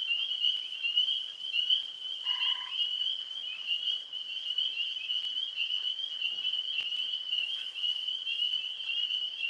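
A dense, unbroken chorus of tree frogs calling around a pond at night. A short, faint whistle-like tone sounds once, about two seconds in.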